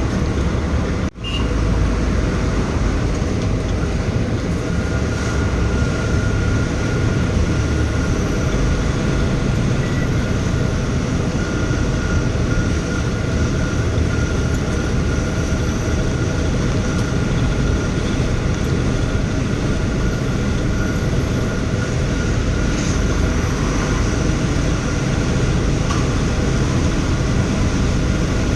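Tata Signa trailer truck's diesel engine and road noise while driving, heard from inside the cab: a steady low noise with a faint steady whine above it. There is a brief break in the sound about a second in.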